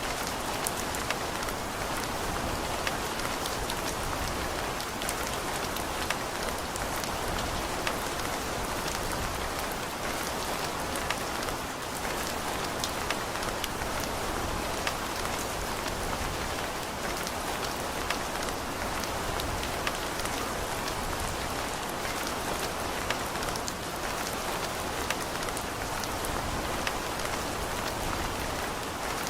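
Steady rain with many distinct drop ticks spattering on a hard surface.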